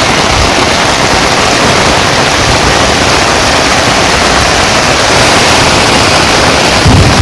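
Heavy rain pouring down as a loud, steady hiss.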